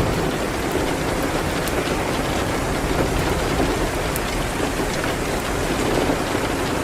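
Steady rain, as a dense, even hiss, with a few faint sharp crackles from a wood fire scattered through it.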